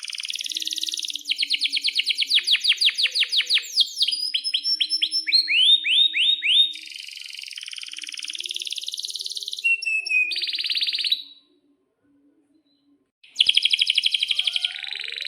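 Male domestic canary singing long, fast rolling trills and series of quick down-slurred chirps. The song breaks off for about two seconds near the end, then starts again with another rapid trill.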